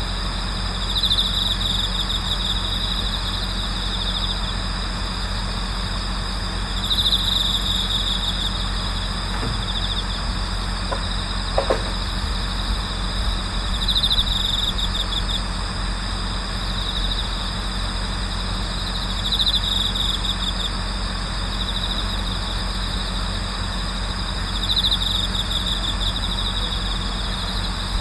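Night chorus of autumn insects: a continuous high-pitched trill, with a louder bell cricket trill rising about every six seconds, each lasting a second or so. A steady low hum runs underneath, and there are a couple of faint clicks a little under halfway.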